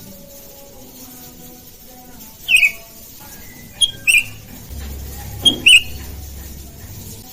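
Sooty-headed bulbuls (kutilang) calling back and forth: short, sharp calls in three bursts, at about two and a half, four and five and a half seconds in.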